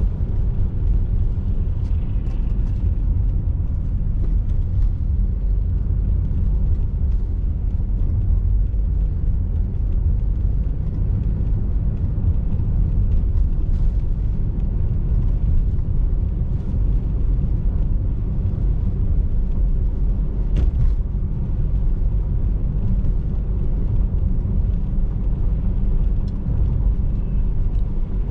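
Steady low rumble of a car driving, engine and tyre noise heard inside the cabin, with a few faint ticks, one plainer about two-thirds of the way through.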